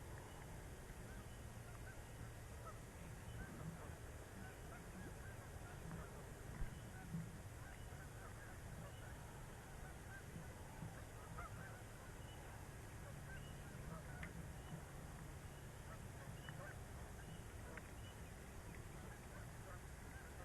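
Faint outdoor bird calls, many short chirps scattered through, over a low steady hum, with one brief sharp click about six and a half seconds in.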